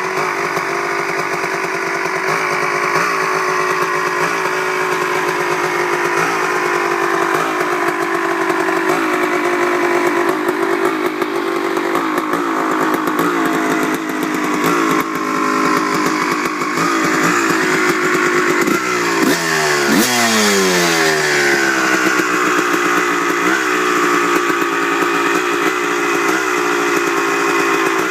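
Honda CR250 two-stroke single-cylinder dirt bike engine idling unevenly with a sputter, with one throttle blip about two-thirds of the way through that rises and falls back to idle. The sputter appears only once the engine is hot after five to ten minutes of riding; it idles cleanly when cold.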